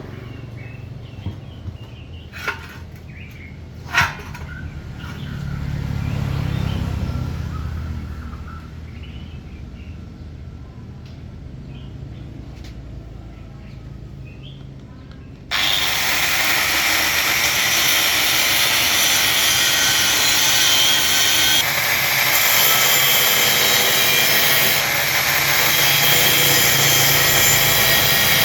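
A low rumble with a couple of sharp knocks, then about halfway through a power tool starts suddenly and runs loud and steady to the end, with a harsh hiss reaching high up.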